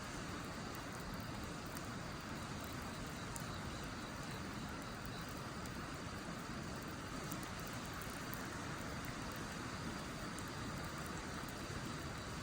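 Wood fire burning in a fire pit: a steady rushing hiss with a few faint, scattered crackles.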